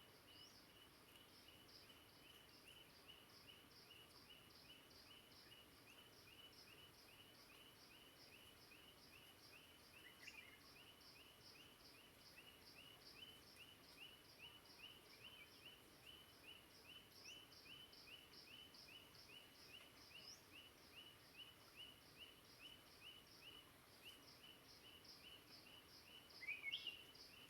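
Faint forest ambience: a steady, rhythmic high chirping, about three chirps a second, over a soft hiss. A brief bird call comes about ten seconds in, and a louder rising one near the end.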